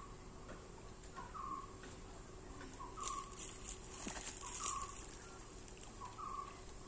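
A bird repeats a short two-note call about every second and a half, a quick lower note then a longer higher one. A few bursts of rushing noise come in the middle.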